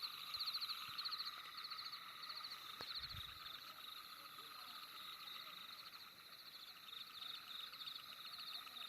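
Night-time chorus of calling animals: short, rapid pulsed trills repeating about one and a half times a second over a steady lower-pitched trilling, with a faint click and a brief low thud about three seconds in.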